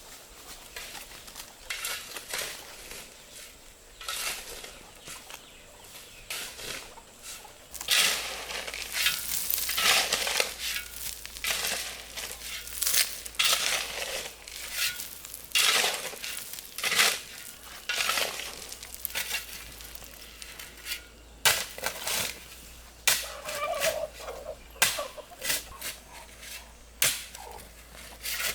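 Poultry calling in a run of short, harsh, irregular calls, thickest from about eight seconds in.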